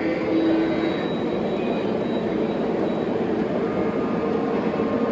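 Three-rail O-gauge model train running on its track: a steady rumble of wheels and motor with a few faint held tones.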